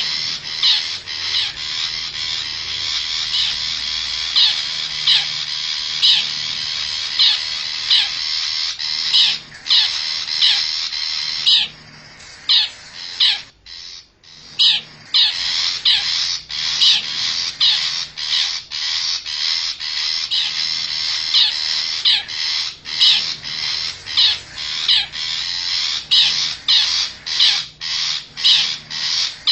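Long-tailed shrike lure call: short bird calls repeated about once or twice a second over a dense chatter, coming faster toward the end, with a break of about three seconds near the middle.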